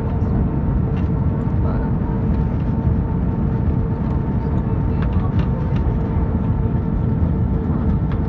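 Airbus A321 cabin noise in flight: a steady low rumble of engines and rushing air, with a constant hum tone running through it and scattered small clicks and rattles.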